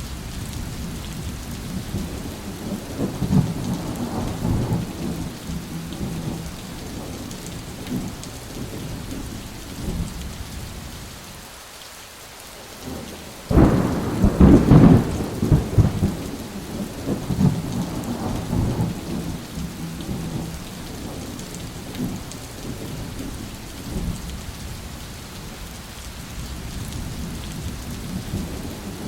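Thunderstorm: steady rain with rolling thunder. A sudden loud thunderclap a little under halfway through is the loudest moment and rumbles on for a couple of seconds.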